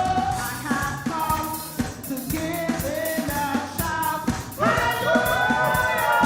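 Church worship song: singers over a band with a steady drum beat, with more voices coming in louder a little past halfway.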